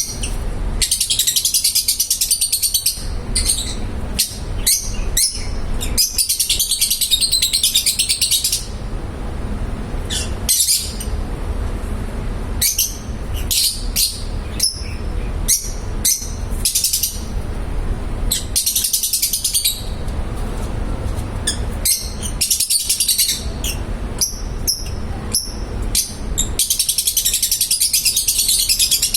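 A flock of caged love birds (small parrots) chattering and chirping. Dense bursts of high chatter a few seconds long alternate with scattered single chirps, over a steady low rumble.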